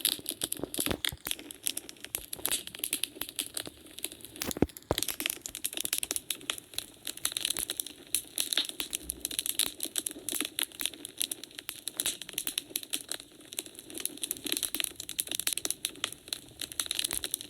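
Wood fire in a fireplace crackling steadily with many small snaps, and one louder pop about five seconds in.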